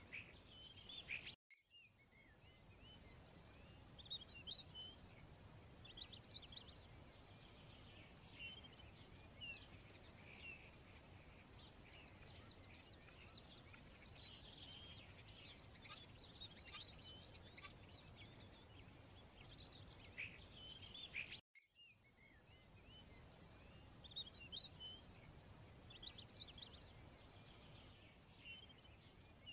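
Faint birdsong: scattered short chirps and twittering calls over a low steady hiss, cut twice by a brief dead silence, about a second and a half in and again near three quarters of the way through.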